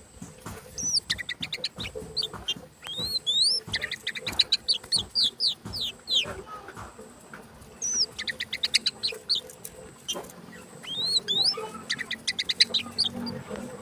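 Oriental magpie-robin (kacer) singing in three bursts with short pauses. The song mixes rising whistled notes with fast runs of repeated notes.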